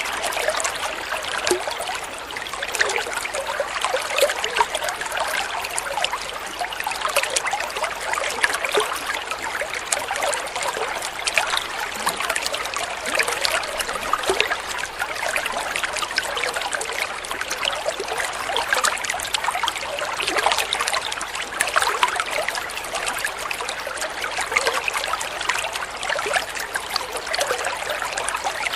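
Water flowing and trickling steadily, a continuous splashing babble with many small droplet sounds, like a small stream or water running over stones.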